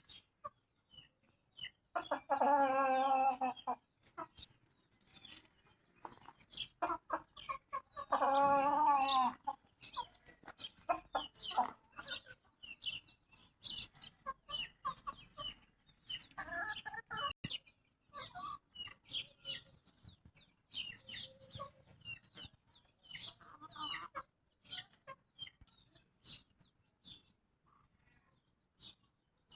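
Chickens clucking, with two loud drawn-out calls about 2 and 8 seconds in and many short, high calls in between.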